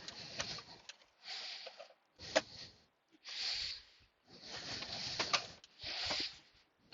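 Short bursts of plastic scraping and rustling with a few light clicks, about six in a row with brief pauses: console trim and a wiring plug being worked loose and pulled through.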